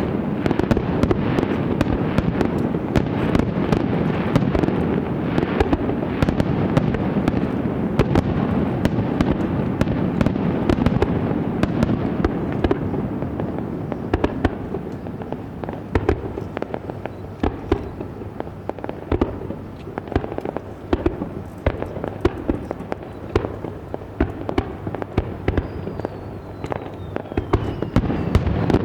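Aerial fireworks display: dense, rapid crackling and popping of bursting shells, thinning out to sparser cracks about halfway through. A faint falling whistle comes in near the end.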